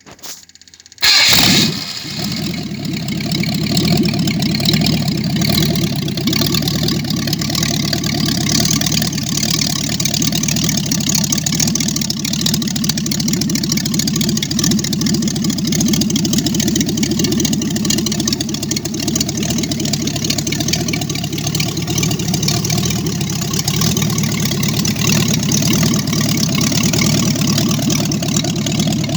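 Ford 302 small-block V8 starting: a brief crank, then it fires with a loud burst about a second in and settles into steady running.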